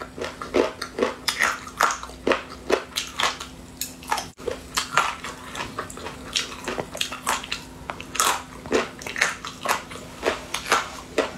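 Close-miked eating: crisp crunches and bites as spicy pickled food is chewed, a quick uneven run of about two to three a second.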